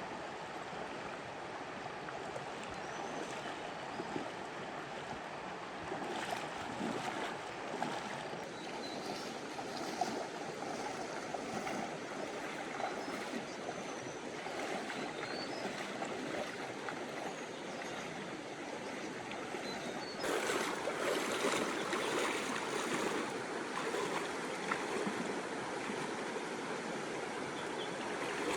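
Steadily rushing stream water, with scattered short, sharper sounds over it; it gets louder about twenty seconds in.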